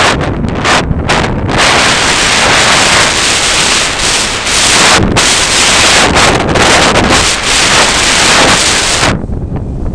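Strong, gusty wind buffeting the microphone: loud, continuous noise that swells and dips with the gusts and turns duller about nine seconds in.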